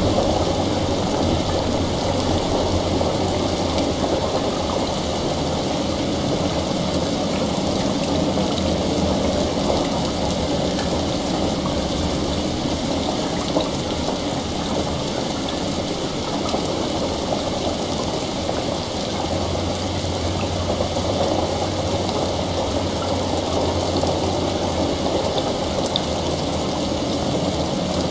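Steady heavy rain mixed with a layer of running water, over a low steady drone.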